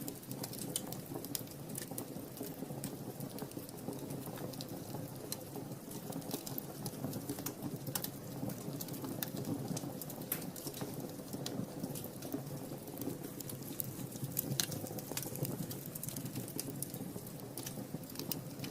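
Wood fire burning in a fireplace: a steady low rush from the flames, with irregular sharp crackles and pops, several a second, from the burning logs.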